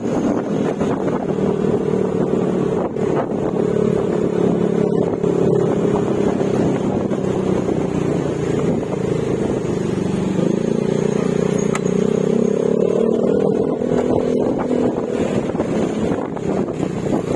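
Yamaha Mio Gravis scooter's 125 cc single-cylinder engine running at cruising speed through an aftermarket Akrapovic exhaust with silencer. The engine note sags slightly, then climbs again about ten seconds in.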